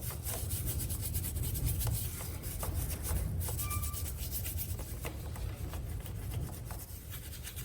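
Repeated rubbing and scrubbing strokes cleaning grime off a motorcycle's lower chain guide, over a steady low rumble; it cuts off suddenly at the end.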